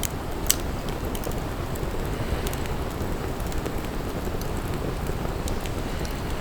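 Wood fire burning: scattered sharp crackles and pops, one louder pop about half a second in, over a steady low rumble.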